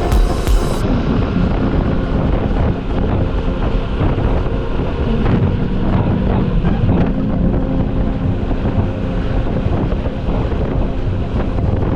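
Motorcycle engine running while riding, with heavy wind buffeting the microphone; the engine pitch dips briefly twice, about five and six and a half seconds in.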